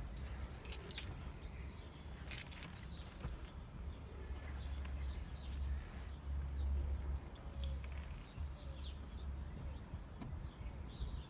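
Outdoor background: a steady low rumble, a few sharp clicks in the first couple of seconds, and faint bird chirps later on.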